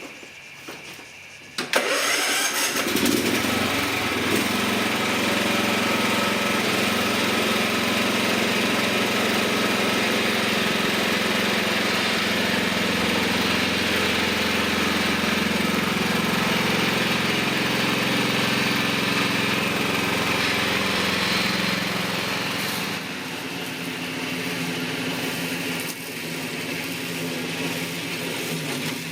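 Ride-on lawn mower engine starting on the key and catching about two seconds in, on a freshly recharged battery that had gone flat on cold nights, then running steadily. The engine note steps down slightly twice near the end.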